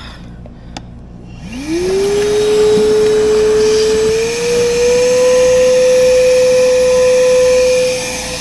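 Wet/dry shop vacuum switched on after a click, its motor spinning up with a quick rising whine and then running steadily, with its pitch stepping up slightly midway. It is pulling suction on an air conditioner's condensate drain line to clear a clog.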